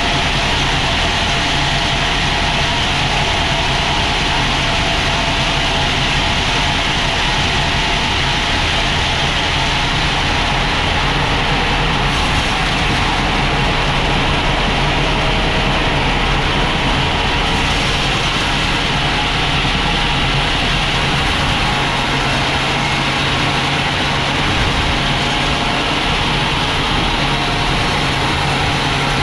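Sawmill machinery running steadily: a low engine-like hum under a constant higher hiss, with no breaks or changes.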